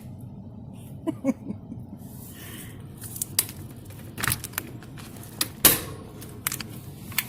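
Work Pro hand staple gun snapping staples into the attic tent's fabric: a string of sharp, irregular clicks with rustling and handling knocks between them, the loudest a little past halfway. A steady low hum from the house air conditioner runs underneath.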